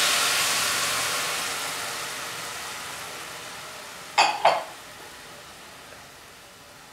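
Curd sizzling in hot oil and puréed spinach in a kadhai just after it is poured in, the sizzle loudest at first and dying away steadily. About four seconds in, two short cough-like sounds.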